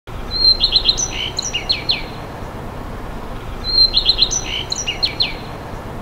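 Songbird singing: the same short phrase of a clear whistle followed by quick, downward-sweeping notes, heard twice about three seconds apart, over a steady low background hum of outdoor ambience.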